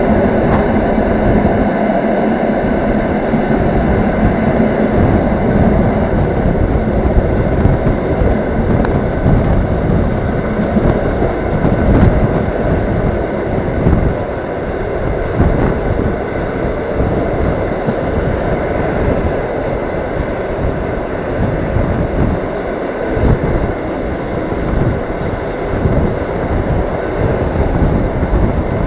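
Passenger train running along the track, heard from a carriage window: a steady rumble of wheels on rails with irregular knocks, a little quieter from about halfway on.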